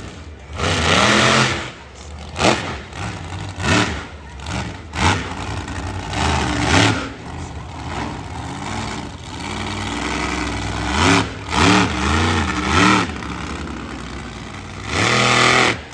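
Monster truck engine revving hard in quick repeated blips, its pitch rising and falling with each stab of the throttle, with loud short bursts of noise in between.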